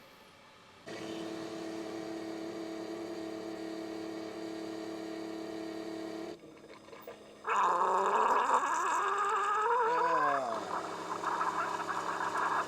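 Single-serve pod coffee maker brewing: a steady electric hum starts about a second in and runs for about five seconds. After a short break comes a louder hissing and gurgling with a wavering pitch as the hot water is forced through the pod.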